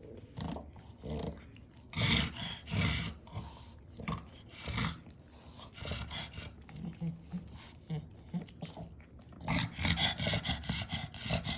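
A pet eating noisily from a bowl held close: irregular bursts of chewing, smacking and crunching, loudest twice, with a few short low grunts in between.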